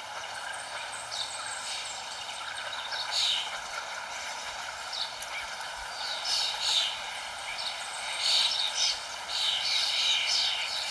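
Wild birds chirping over a steady hiss of background noise, with short high chirps scattered through and coming thicker in the second half.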